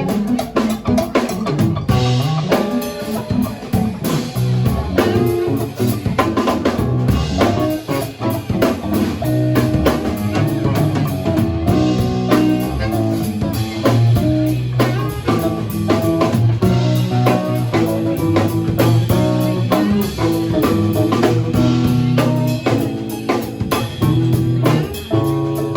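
Live rock band playing without vocals: a drum kit keeping a steady beat over bass and guitar.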